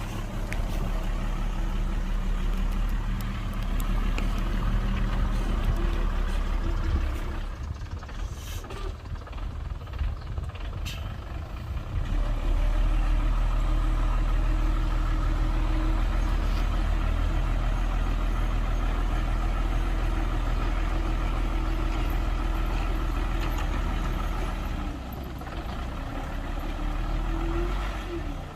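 Heavy diesel engine of earthmoving machinery working under load, a steady low rumble that eases off for a few seconds and then picks up loud again, with a brief rise in pitch near the end.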